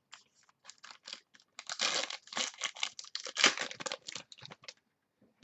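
Trading-card packs and cards being handled: a rapid, irregular run of crinkles and clicks of wrapper and card stock, busiest in the middle and thinning out near the end.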